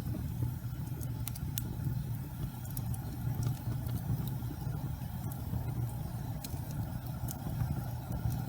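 Fire burning in a fireplace: a steady low rumble of flame with scattered sharp crackles and pops, about eight of them, spread unevenly through the stretch.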